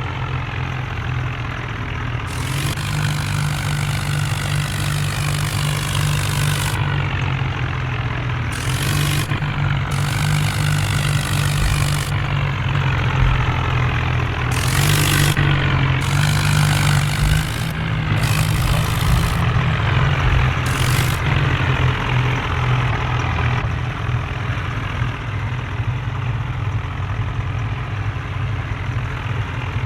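Tractor engines running steadily with a deep hum. A broader hiss cuts in and out several times in the first two-thirds.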